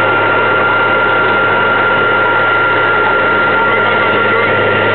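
Small passenger plane's engines running steadily during takeoff, a constant drone with a steady high whine over it.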